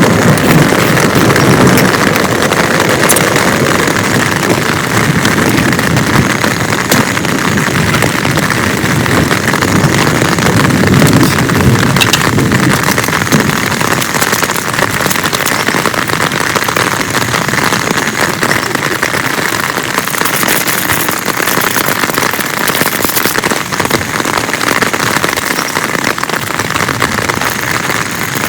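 Heavy rain falling steadily: a dense hiss of drops with many sharp individual taps. A low rumble runs under it, strongest in the first ten seconds or so, then eases.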